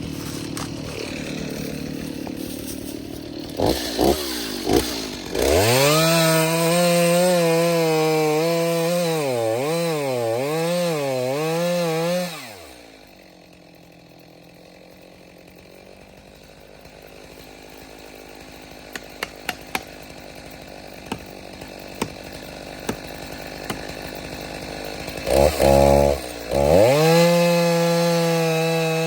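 Small two-stroke chainsaw throttled up to full revs for about seven seconds, its pitch wavering as it cuts, then dropping back. It falls to a low idle with a few sharp snaps, and revs up again near the end.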